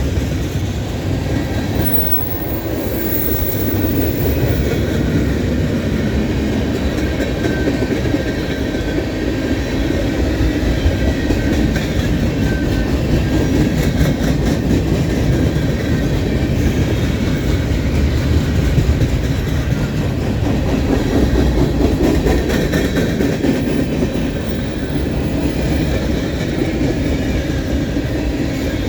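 Freight cars of a manifest freight train rolling past, a steady loud rumble with wheels clicking over the rail joints.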